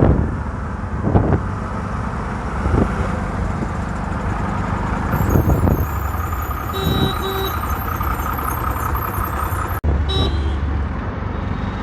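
City road traffic: a steady rumble of passing vehicles, with a short horn toot about seven seconds in.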